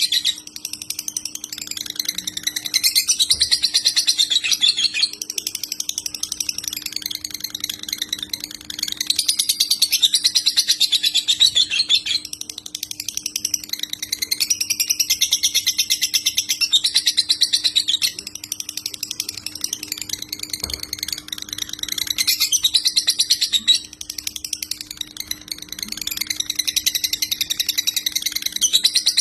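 Lovebird singing in the long, rapid chattering trills of the 'konslet' style, in phrases several seconds long with short breaks between them. A faint steady low hum runs underneath.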